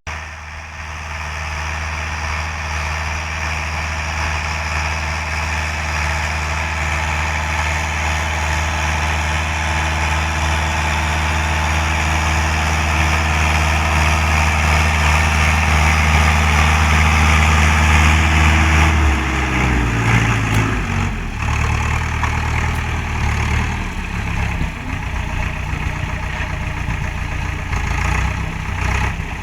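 YTO X904 tractor's diesel engine running steadily and slowly getting louder, then about two-thirds of the way through its speed drops and it runs lower and more unevenly.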